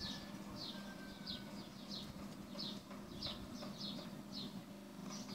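A small bird chirping over and over, short falling chirps about every half second, over a steady low hum.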